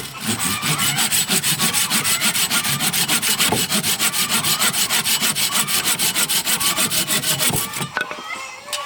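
Hand saw cutting wood in fast, even strokes, about six a second, stopping shortly before the end.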